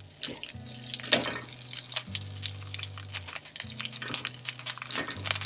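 Food frying in hot oil in a pan, sizzling with many sharp crackles, over background music with steady low chords.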